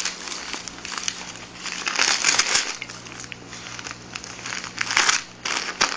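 Christmas wrapping paper crinkling and tearing as a pet pulls at a present, in rustling bursts that are loudest about two seconds in and again near the end.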